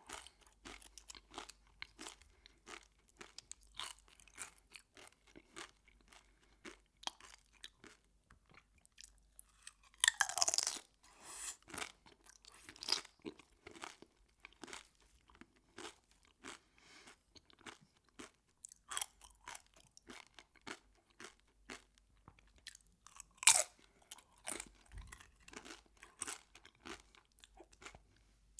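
Close-miked chewing of crunchy food, a steady run of small crunches and mouth clicks. There is a louder crunching bite lasting about a second around ten seconds in, and a single sharp crunch about two-thirds of the way through.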